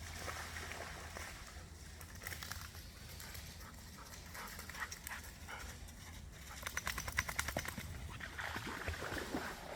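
A dog panting and moving about close by, with a quick run of rapid short sounds about seven seconds in.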